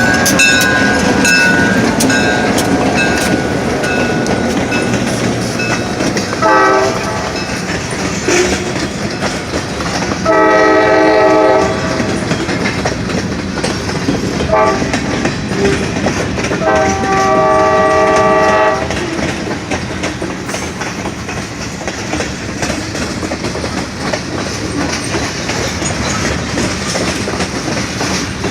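Freight train led by EMD GP38-2 diesel locomotives passing slowly, its engines rumbling and its wheels clattering on the rails. The locomotive horn blows four times, short, long, short, long, with the last blast ending about two-thirds of the way through.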